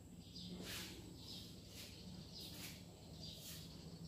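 Faint bird chirping: short, high chirps repeated about twice a second.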